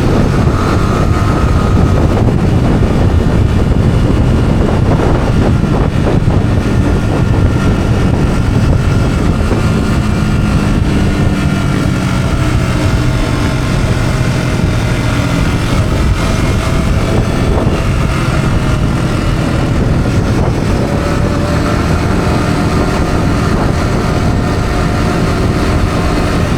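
Yamaha R15's single-cylinder engine running through its stock exhaust while the bike is ridden, the engine note drifting gently up and down, under a steady rush of wind on the microphone.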